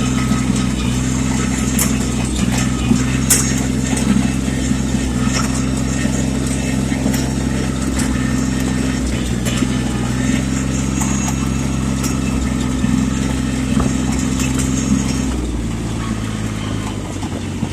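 Yanmar tractor's small diesel engine running steadily under load, with scattered clicks and knocks from ice breaking up beneath it. About fifteen seconds in, the engine note drops as the tractor slows.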